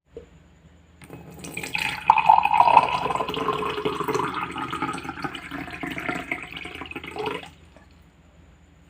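A liquid running steadily for about six seconds, starting about a second in and cutting off suddenly.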